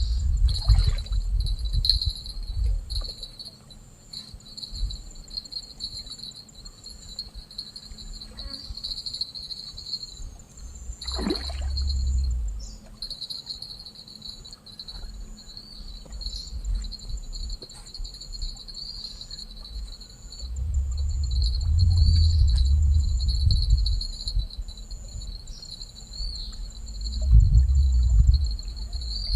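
Insects chirring steadily in a high, pulsing drone, with low rumbles coming and going a few times.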